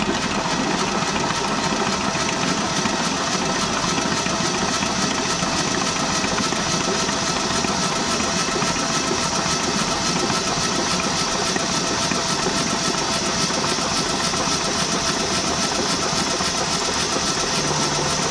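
Starter motor cranking the 1967 Ford F100's FE big-block V8 with its spark plugs out, spinning it over at an even, steady speed. The engine turns over freely after more than 20 years of sitting, so it is not seized.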